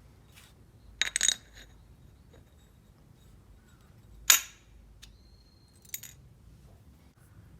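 Metal tools or parts clinking as they are handled and set down during a motorcycle oil change: a quick cluster of clinks about a second in, one sharp ringing clink a little after four seconds, and a smaller one near six seconds.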